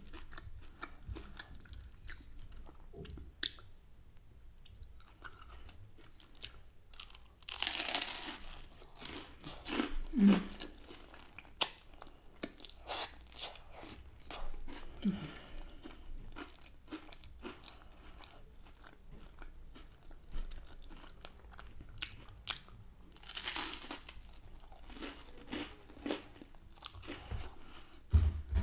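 Close-up eating sounds: chewing and biting on crunchy garlic bread and creamy pasta, with many small mouth clicks and two louder crunching bites, one about eight seconds in and another some fifteen seconds later.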